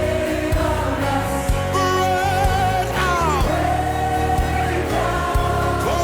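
Gospel worship music: a voice holding long sung notes with slides and vibrato, without clear words, over a band with a low bass line and regular drum hits.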